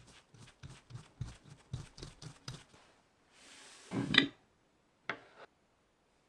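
Hand-tool handling noises: a run of short, light clicks and taps, then a brief rushing noise ending in a louder knock about four seconds in, and one more click.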